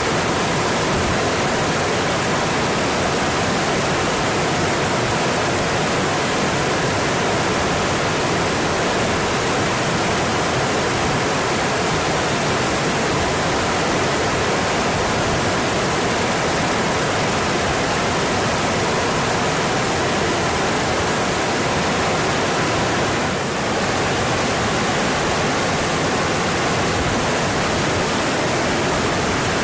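Mountain stream water rushing steadily over rocks, an even, unbroken wash of noise with one brief dip in loudness late on.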